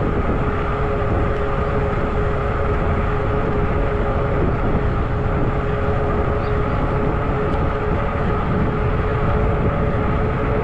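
Zota Zephyr 20-inch fat-tire e-bike riding at a steady speed: a steady rush of wind over the microphone, with a steady whine from the bike running underneath it.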